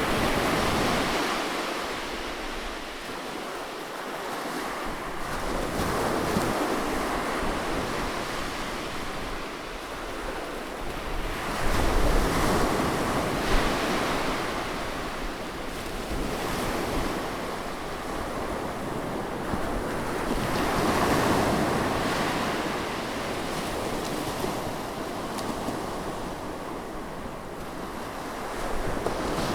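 Sea waves breaking and washing in, swelling and ebbing every few seconds, with the strongest surge about twelve seconds in. Wind buffets the microphone.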